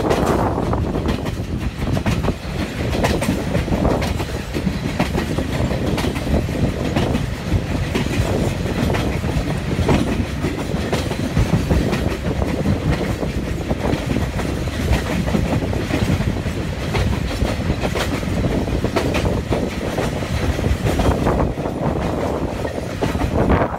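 Passenger train coaches rolling along the track, heard from an open coach window: a steady rumble and rush with frequent clacks of the wheels over the rails.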